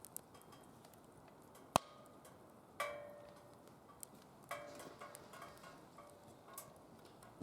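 Wood fire crackling and popping in a DOD Mecha-Moe Fire fire pit: scattered sharp pops, the loudest a little under two seconds in, and short bursts of crackling around three and four and a half seconds in.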